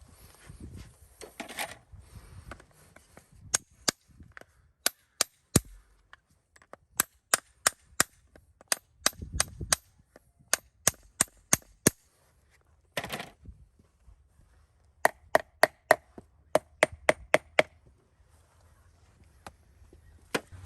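Farrier's hammer striking in runs of sharp, quick taps, about two to three a second, the later blows ringing with a clear metallic tone.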